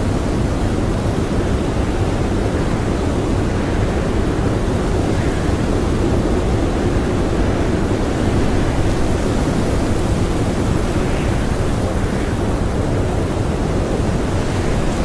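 Blizzard wind howling: a steady, dense rush of noise with slow, gentle swells.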